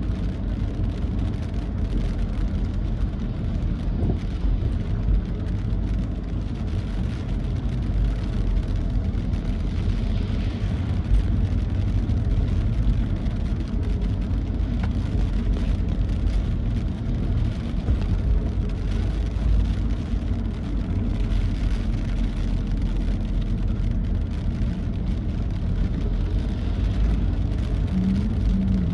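A vehicle travelling along a rain-wet road: a steady low rumble with tyre and spray hiss.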